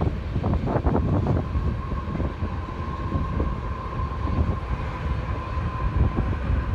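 Train rolling past: a dense, steady rumble of wheels on rail, with a thin high tone held from about a second and a half in until near the end.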